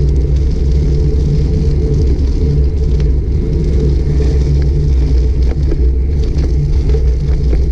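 Wind and road rumble on the microphone of a GoPro Hero 5 Black carried on a moving bicycle: a loud, steady low rumble, with a few faint ticks.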